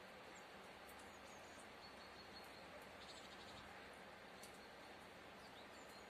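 Near silence: a steady faint hiss with a few faint, short, high-pitched bird chirps scattered through, and a brief quick run of ticking chirps about three seconds in.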